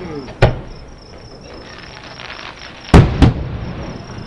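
Aerial fireworks shells bursting about a mile away: one bang about half a second in, then two close together near three seconds in. Crickets chirp steadily underneath.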